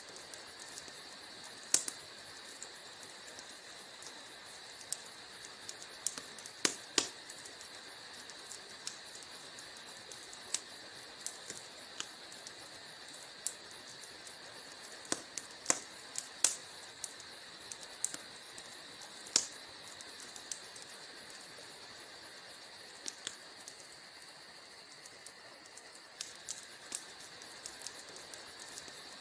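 Wood fire crackling in a fireplace: a steady hiss with scattered sharp pops and snaps, a few louder ones standing out.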